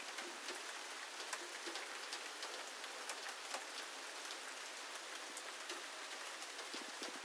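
Steady rain falling on a surface, with many scattered sharp ticks of single drops.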